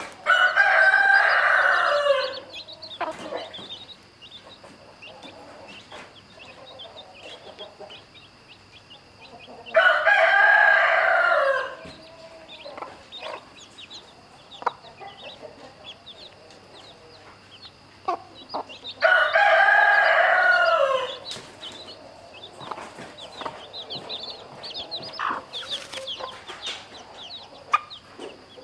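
Rooster crowing three times, each crow about two seconds long and about ten seconds apart. Between the crows, chicks peep and clucking is faint.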